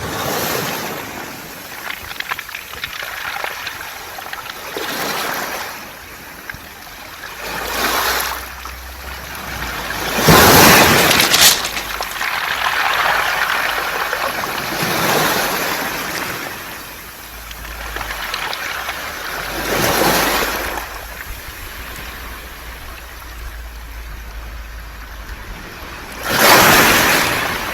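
Waves washing up a beach of round, smooth pebbles, the stones rattling and hissing as each wave surges in and drains back, in repeated swells that are strongest about ten seconds in and again near the end.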